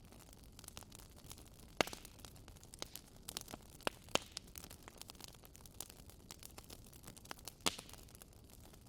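Wood fire crackling in a fireplace: a steady patter of small clicks over a low hiss, with three louder pops spread through.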